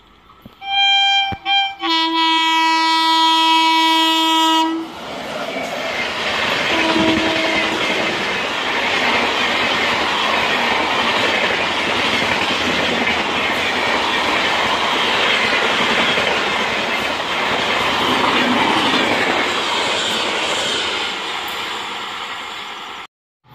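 WAP-7 electric locomotive's air horn: two short blasts, then a long one of about three seconds, then a brief toot, as the Humsafar Express passes at speed. After the long blast the train's passing takes over: a loud steady rush of coaches with wheels clattering over the rail joints.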